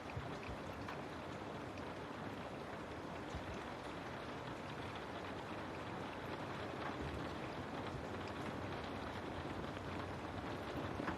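Steady rain falling on a window pane, an even, unbroken patter.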